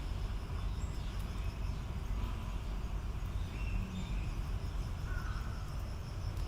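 Steady low outdoor rumble with a faint, steady high insect-like tone and a few faint, short chirps scattered through it.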